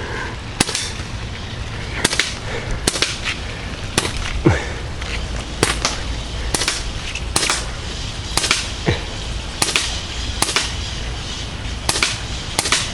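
Crosman Nightstalker .177 CO2 air rifle fired again and again: about a dozen sharp cracks, roughly one a second. A short falling whine follows twice.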